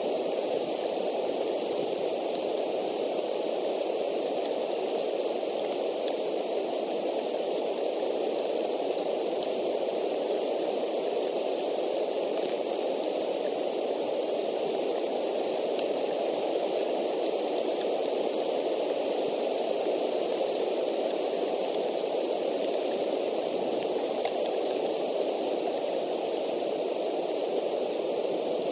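Steady rain, heard as an even hiss with a few faint scattered ticks of drops, picked up by an outdoor nest camera's microphone.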